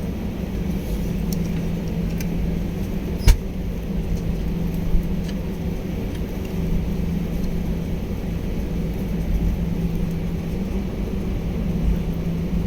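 Steady low hum of an airliner's engines and air conditioning heard inside the cabin before take-off, with a single sharp click about three seconds in.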